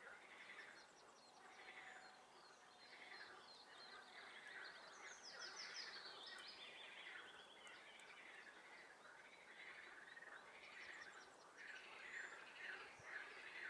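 A chorus of frogs calling faintly, their calls repeating about once a second, with songbirds trilling over them in the middle and again near the end.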